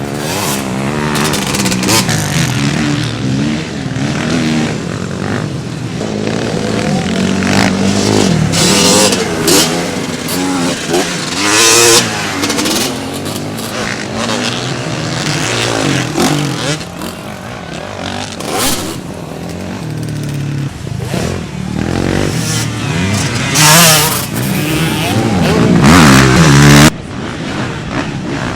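Motocross bike engines revving and accelerating, rising and falling in pitch as riders work the throttle, with several loud close passes and a sudden break near the end.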